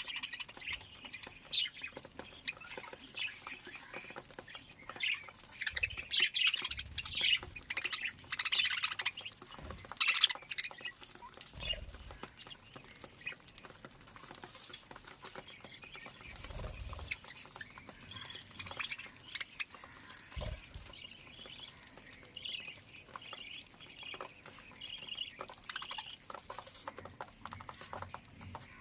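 A flock of cage birds in an aviary squawking and chirping, busiest in the first ten seconds, with a run of short repeated calls later on and scattered clicks and light thumps of birds moving about.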